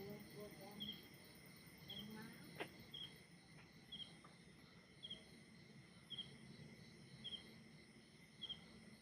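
Faint insect chirping, a short high double chirp repeating about once a second, with faint distant voices in the first couple of seconds and a single click a little past two seconds in. No aircraft engine is heard.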